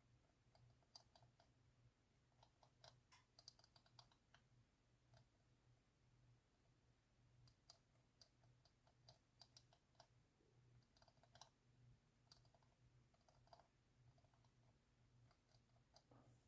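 Near silence: scattered faint small clicks, several in quick runs, over a low steady hum.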